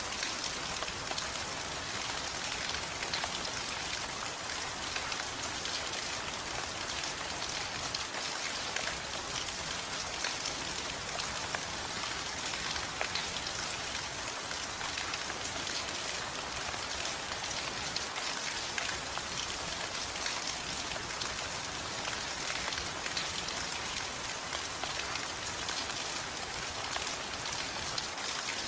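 Steady heavy rain falling on a surface, an even hiss of many drops with scattered individual drop ticks.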